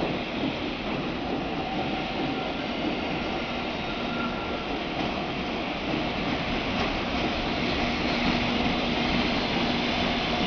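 JR Freight container freight train running past on the rails, a steady rumble of wheels and wagons that grows slowly louder.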